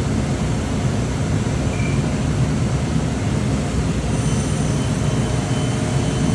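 CNC machine running steadily as it machines a mahogany door stile, with a high whine joining about four seconds in.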